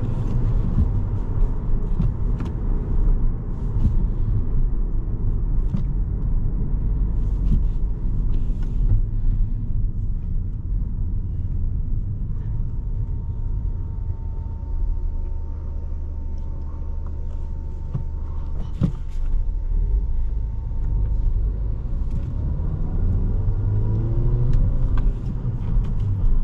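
Cabin sound of a 2017 Volkswagen Jetta SE with its 1.4-litre turbo four-cylinder and 5-speed manual gearbox, driving: continuous engine and road rumble. In the middle the rumble settles into a steadier low hum for several seconds before it picks up again.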